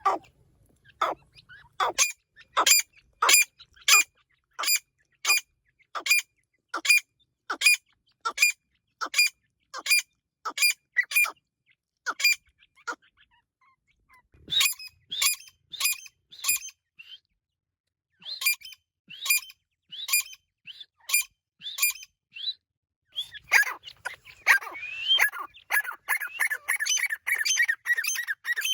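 Irani teetar (a partridge) calling: a long run of sharp, evenly spaced calls, about one and a half a second. After a short pause the calls come back in groups, then grow faster and run together into a rapid chatter near the end.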